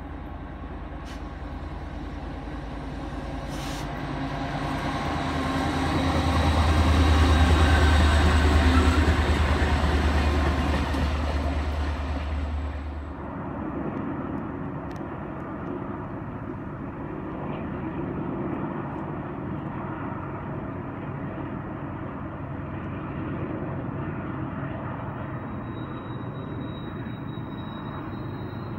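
Diesel freight locomotives approaching and passing close by with a steady low engine hum. The sound builds to its loudest about 7 to 12 seconds in, then falls off sharply to a lower, steady rumble of the train rolling around the curve. A faint high whine comes in near the end.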